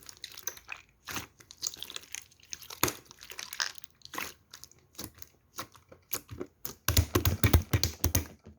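Close, irregular crinkling and crackling of something being handled, with a louder, denser run of crackles near the end.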